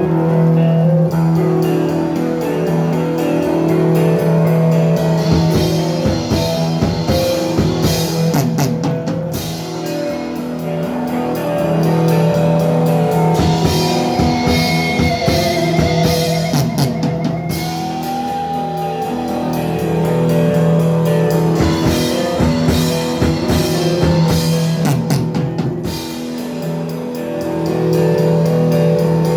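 Thrash metal band playing live: distorted electric guitars chugging chords over a pounding drum kit, with a held, wavering lead guitar note about halfway through.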